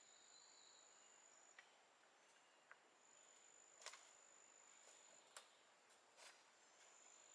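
Near silence: faint forest ambience with a thin, steady high-pitched insect trill that drops out briefly and resumes, and a handful of faint sharp clicks.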